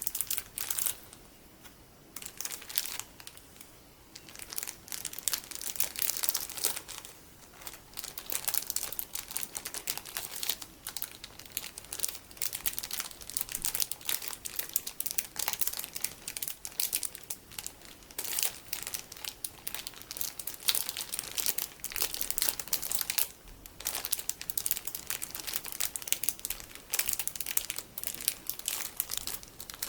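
Plastic packaging full of colourful sticky beads being squeezed and handled: a dense, crackly crinkling, with short pauses in the first few seconds.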